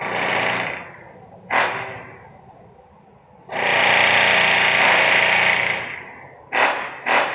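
Loud intermittent industrial noise from a plant: a short burst at the start and another about a second and a half in, a longer burst of about two and a half seconds, then quick repeated bursts near the end.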